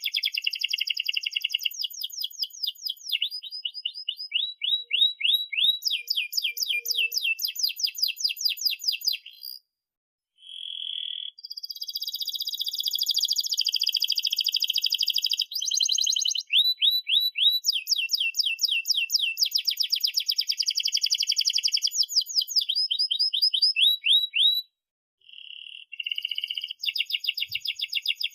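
Domestic canary singing a long song of fast trills and rolls of repeated high chirps, broken by two short silences, about ten seconds in and near the end.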